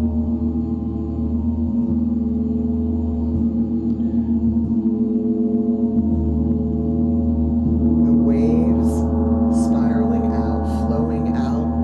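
Gong played in a sound bath: a steady, dense drone of many overlapping ringing tones over a low hum. Near the end, a few short bright, hissing accents sound over it.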